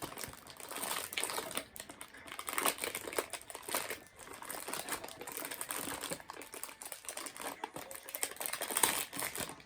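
Crinkling plastic biscuit packaging being handled and opened, a continuous run of crackles and small clicks.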